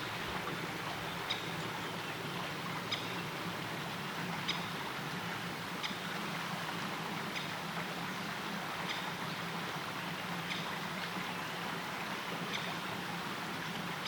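Steady rushing of river water, with a faint short high tick repeating about every one and a half seconds.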